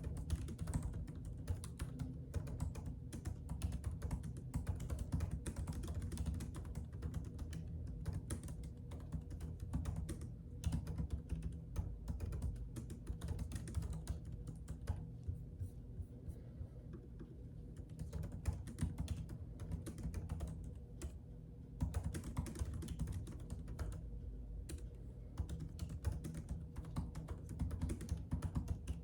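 Typing on a computer keyboard: a steady stream of irregular keystroke clicks that thins out briefly about halfway through, over a steady low hum.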